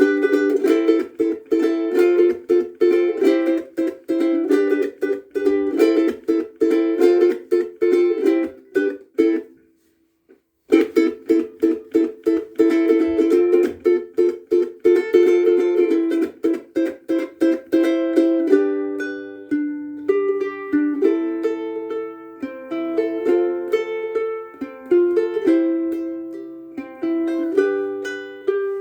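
Kiwaya Kauri pine soprano ukulele with Loprinzi fluorocarbon strings being played: fast, rhythmic chords that stop for about a second some ten seconds in, then resume. In the last third it turns to a slower line of separate plucked notes.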